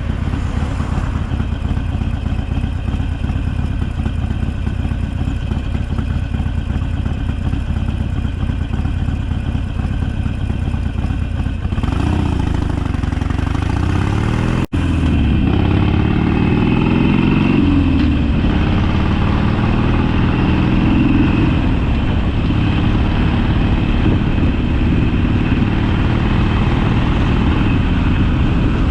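Harley-Davidson Sportster's V-twin engine running on the move, with road and wind noise. About twelve seconds in the engine note falls and rises. After a brief dropout it climbs, dips and climbs again, then holds a steady cruise.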